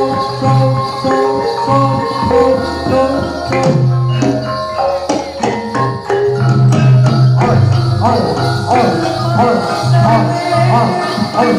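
Jathilan dance accompaniment music played live: an ensemble of ringing tuned percussion and drums in a steady beat, with sustained low notes underneath.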